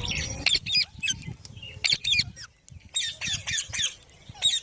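Indian ringneck parakeets (green parrots) giving short, harsh calls in quick runs, each call with a quick pitch glide, with a cluster of about four calls close together around three seconds in.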